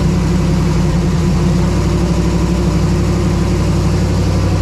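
A twin-turbo LS V8 idling steadily with a fast, even low pulse, running to warm up while the coolant is topped off.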